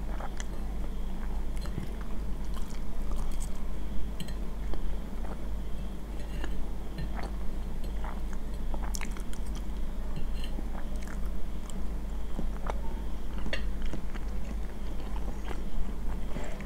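Chewing and small mouth sounds close to the microphone, with light clicks and scrapes of a metal fork against a plate as the last crumbs are picked up, over a steady low hum.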